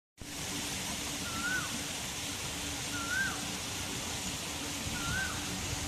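A bird calls three times, a short whistled note that rises and then drops, about every two seconds, over a steady rushing noise that starts abruptly.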